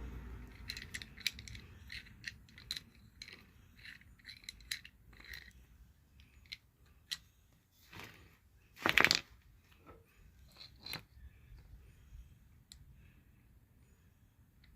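Light metallic clicks, ticks and clinks of steering parts and tools being handled, scattered through the first half, with one louder burst of noise about nine seconds in.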